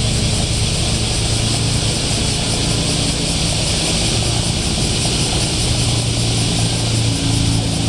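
Car engine and exhaust running steadily at low speed, a low even drone with a hiss over it and no revving.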